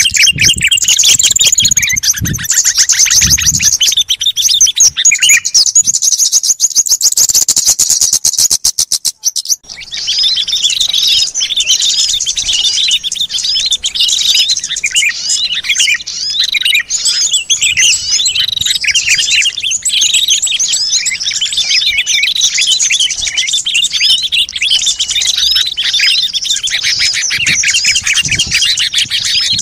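Bird-lure recording of many small songbirds calling together. A fast buzzy trill runs for about the first nine seconds, then after a brief break a dense, busy chorus of overlapping chirps and twitters.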